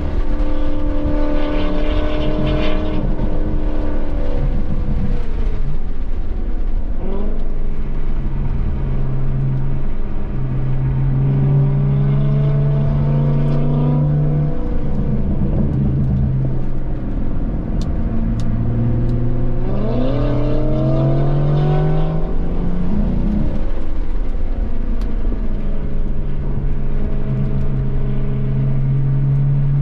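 BMW M240i's turbocharged straight-six being driven hard at speed. The engine note climbs twice under acceleration and falls away in between as the driver lifts off.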